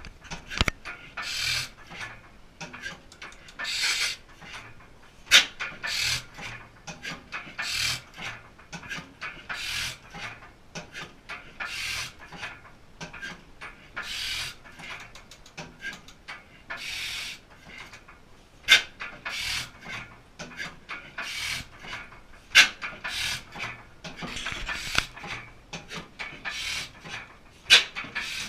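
1889 Crossley single-cylinder stationary gas engine running slowly on magneto spark ignition and a snifter valve carburettor. A breathy, hissing puff comes about every two seconds over a soft low beat, with a few loud sharp clicks from the valve gear and ignition.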